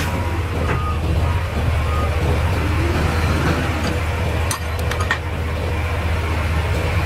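Heavy diesel engine running steadily with a deep, even rumble, and a few short metallic clicks about two-thirds of the way through.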